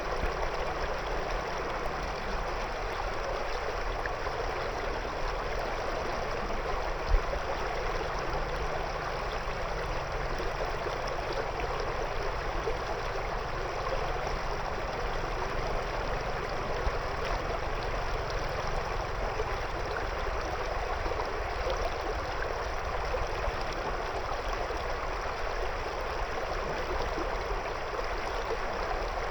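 River water running over stones, a steady, continuous rushing and burbling. A single brief knock stands out about seven seconds in.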